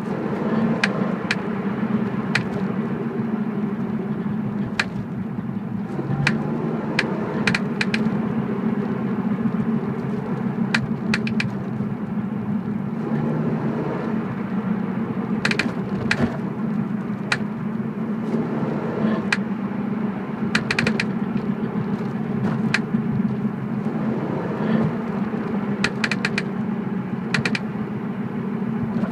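BMW E46 on the move with steady road and running noise, over which sharp clicks come from the rear of the car at irregular intervals, sometimes singly and sometimes several in quick succession.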